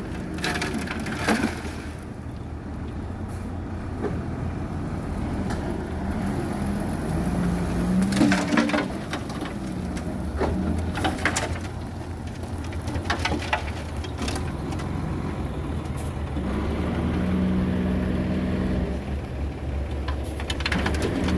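Heavy diesel earthmoving machinery running, its engine note rising for a couple of seconds near the end, with scattered metallic clanks and knocks throughout.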